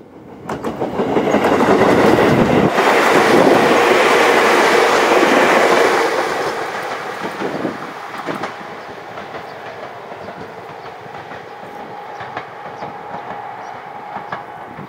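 A train passing by: a loud rushing clatter swells within the first two seconds, holds for about four seconds, then slowly fades with scattered clicks as it moves away.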